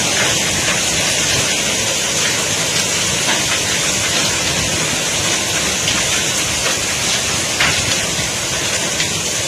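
Heavy rain mixed with hail, a steady dense hiss with a few sharper ticks of hailstones striking scattered through it.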